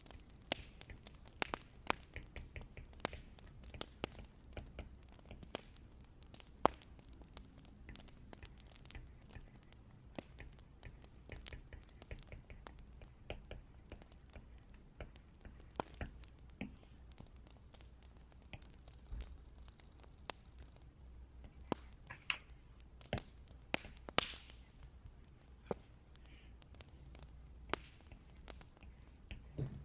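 Wood fire crackling, with irregular sharp pops and snaps over a faint steady background.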